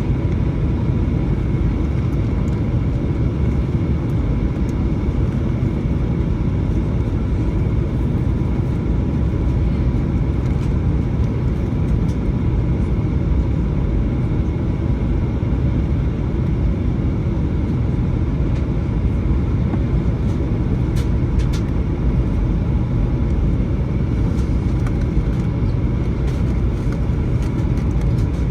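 Steady cabin noise inside a Boeing 737-900 airliner in flight: the low drone of its CFM56-7B turbofan engines and the rush of air past the fuselage, with a faint steady whine above it.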